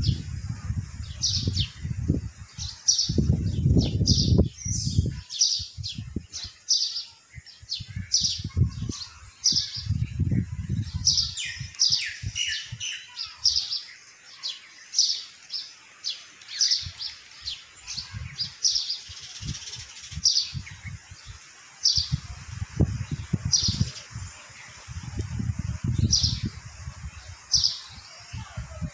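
Small birds chirping, short high calls repeating about once or twice a second and busiest about halfway through. Low rumbling bursts on the microphone come and go at times.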